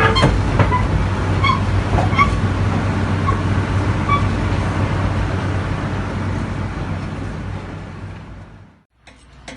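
Diesel engine of a construction machine running steadily, heard from inside the operator's cab, with a few short squeaks and clicks in the first few seconds. The sound fades out about eight seconds in.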